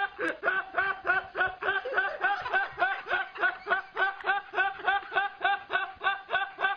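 A laugh sound effect: short, evenly repeated chuckles, about four to five a second, without a break.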